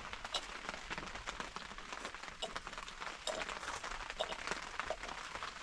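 Steady rain pattering, a dense spatter of tiny drop ticks over an even hiss.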